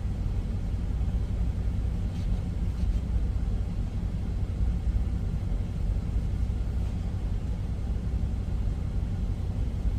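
Steady low rumble of an idling truck engine, with a constant hum running underneath.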